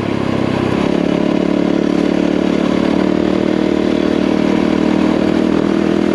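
Yamaha WR450F dirt bike's single-cylinder four-stroke engine running at steady revs while being ridden, with little change in pitch.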